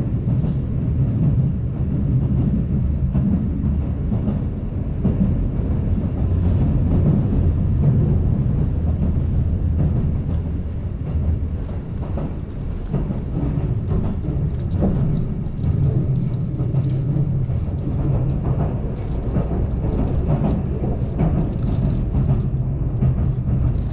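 Keihan Main Line limited express train running at speed between stations, heard from inside the passenger car: a steady low rumble of wheels and motors, with faint clicks scattered through it.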